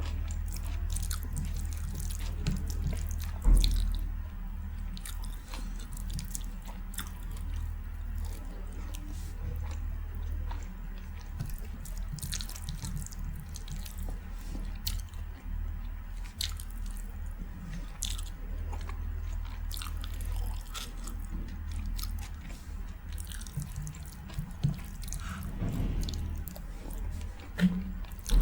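Close-miked wet eating sounds of a rice, daal and curry meal: chewing, with many small wet clicks and squelches, over a steady low hum. A louder knock comes a few seconds in and again near the end.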